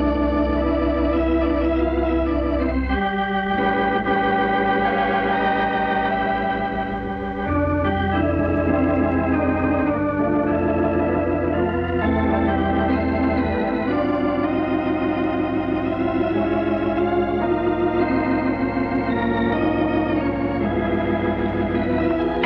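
Organ music: sustained chords with a slight wavering, over held bass notes that change every few seconds.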